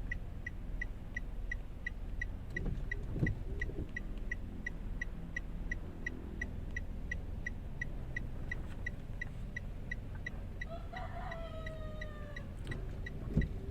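Toyota Wigo's three-cylinder engine idling with a steady low hum while it misfires on cylinder #1, with a regular sharp tick about three times a second over it. A rooster crows near the end.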